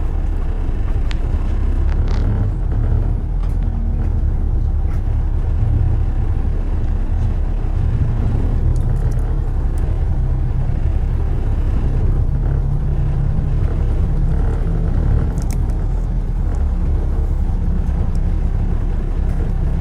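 Steady low rumble of city road traffic, with a few faint clicks and knocks here and there.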